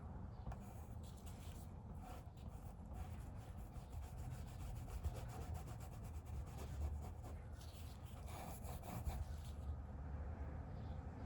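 Faint rubbing strokes of a paintbrush being worked across a painting surface, in quick clusters in the first few seconds and again about eight seconds in.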